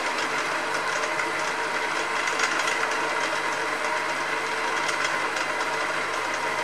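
Hafco HM48 milling machine running steadily with a cut in progress, a continuous machine hum with several steady tones.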